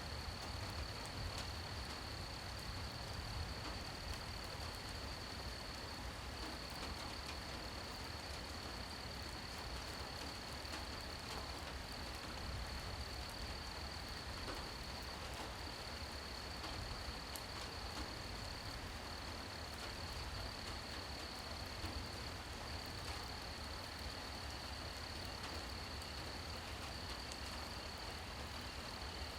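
Steady high-pitched trilling of night insects over a soft, even hiss of falling rain, with a low rumble underneath.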